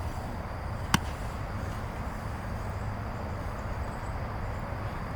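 Steady outdoor background noise with a low rumble, and one sharp click about a second in.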